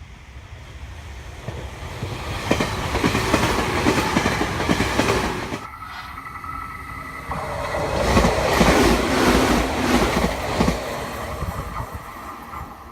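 Meitetsu electric train passing at trackside, its wheels clacking rhythmically over the rail joints. The sound swells twice, with a short dip about six seconds in, and a steady tone rises through the second swell.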